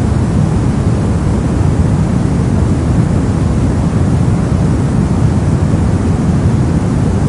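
Brown noise: a steady, deep hiss of random noise with most of its weight in the bass, unchanging throughout.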